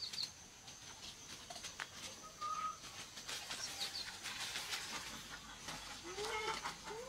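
Birds chirping outdoors, with a few short rising calls near the end, over a steady high-pitched whine.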